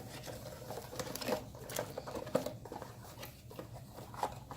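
Small, irregular clicks, taps and rattles of an action-camera mount and its parts being handled.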